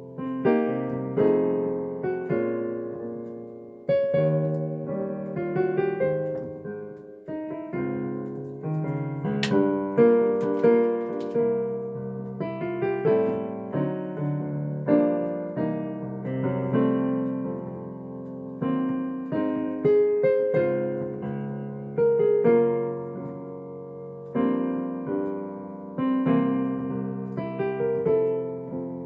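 Solo digital piano playing a slow bossa nova jazz arrangement: chords with a melody line on top, each note struck and fading.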